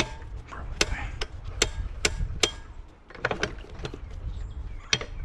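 A steel handle on a piece of scrap being bent off by hand. It gives a string of sharp, irregular knocks and clanks, about seven in all, with a pause near the middle.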